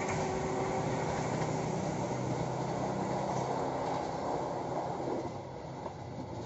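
Passenger train running away down the track, its wheel and rail rumble with a low hum fading as it recedes and dropping off about five seconds in.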